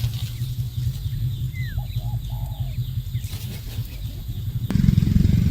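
Faint, short bird calls and one falling whistled note over a steady low rumble, which turns suddenly louder near the end.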